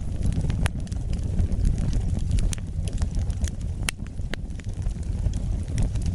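Wood fire burning: a steady low rumble of flames with scattered sharp crackles and pops, several louder snaps near the middle.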